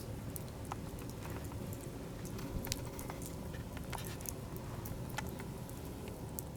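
Wood campfire crackling, with many small irregular pops and snaps over a low steady rumble.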